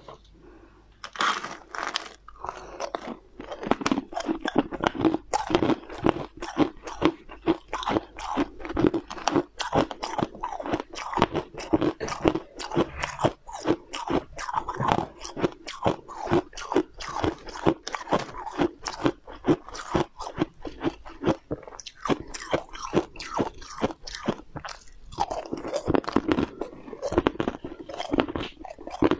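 A person crunching and chewing a mouthful of hard, crisp food, close to a clip-on microphone. It is a steady, rapid run of crunches starting about a second in.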